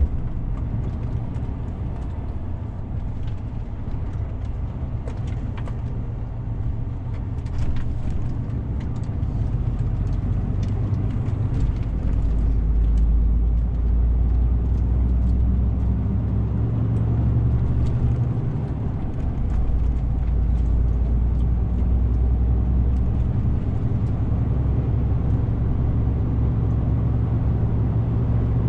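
DAF CF 450 truck driving along: a steady low diesel rumble with road noise. The rumble grows heavier about twelve seconds in, and light clicks and rattles come and go in the first half.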